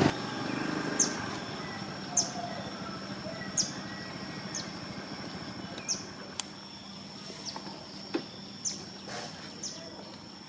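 Outdoor ambience: a steady high insect drone under a short, sharp chirping call that repeats about once a second, with a faint low hum fading out in the background.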